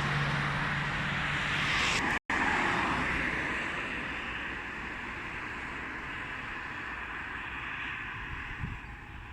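Jet aircraft engine roar fading slowly as the plane moves away. It cuts out for a moment about two seconds in.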